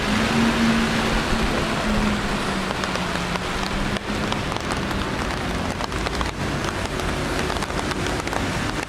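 Steady rain falling, with many single drops ticking sharply on hard surfaces, more of them in the second half. A low steady hum sounds under the rain for the first three seconds or so, then fades out.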